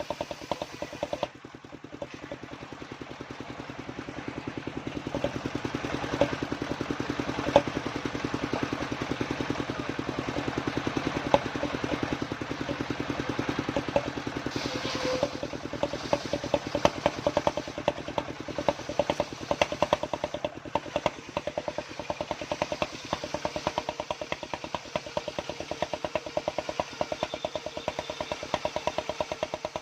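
The engine driving a homemade circular saw rig running steadily with quick, even firing pulses. It dips briefly about a second and a half in, and there are a couple of sharp knocks midway.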